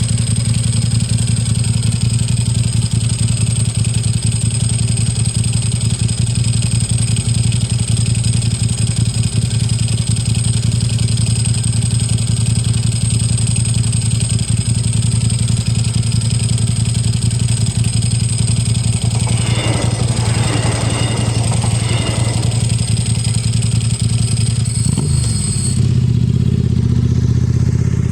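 Electric warning bell of an AŽD 71 level crossing ringing continuously as a fast, even rattle with a steady high ring over it, stopping about 26 seconds in as the crossing switches off.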